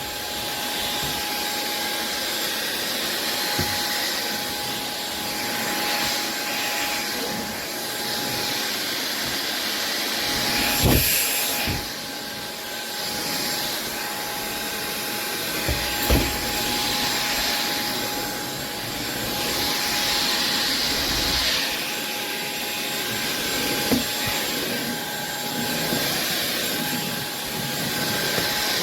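SunSare X7A cordless stick vacuum running steadily, a constant whine over the suction noise, with a few short knocks as the head is moved over a wooden floor.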